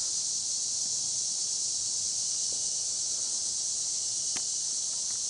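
A steady, high-pitched chorus of insects, crickets or similar, with a single faint click about four seconds in.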